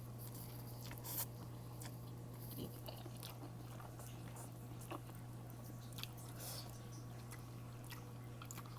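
Close-miked eating: soft chewing and biting with scattered small wet clicks and crunches, over a steady low electrical hum.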